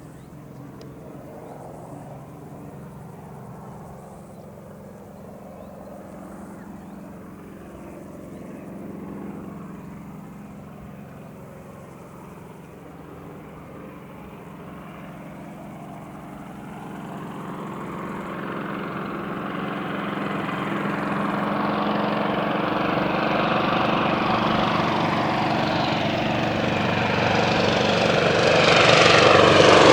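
A North American T-28 Trojan's Wright R-1820 nine-cylinder radial engine and propeller drone at a distance, then grow steadily louder over the second half as the aircraft approaches.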